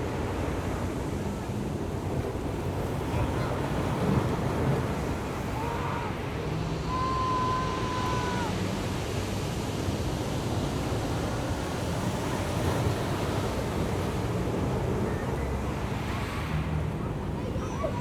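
Ocean surf breaking and washing steadily on the shore, with a low rumble of wind on the microphone and faint, indistinct voices of people in the background. A brief high held tone sounds about seven seconds in.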